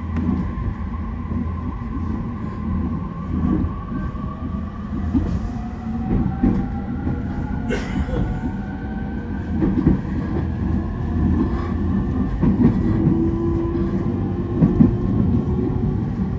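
Onboard sound of a JR East electric commuter train pulling away and gathering speed: the traction motors whine in several tones that slowly rise in pitch, over a steady rumble. The wheels knock over rail joints and points, with a sharp click about eight seconds in.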